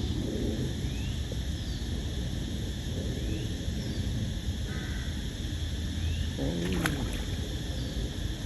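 Park pond ambience: a steady low rumble with a constant insect drone and a short rising chirp about every second and a half. A brief wavering call comes about two-thirds of the way through, followed by two sharp clicks.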